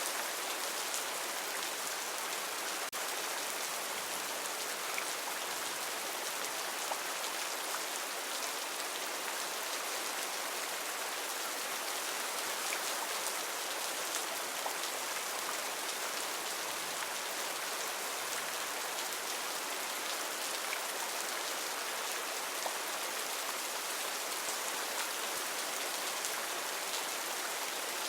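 Heavy rain falling steadily in a rainforest, a dense even hiss with scattered individual drops hitting leaves.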